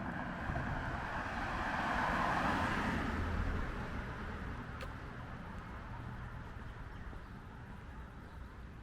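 A car passing on the street, its tyre and engine noise swelling to a peak about two to three seconds in and then fading away.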